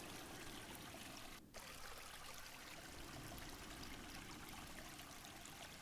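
Faint, steady trickle of a forest stream, with a brief dropout about one and a half seconds in.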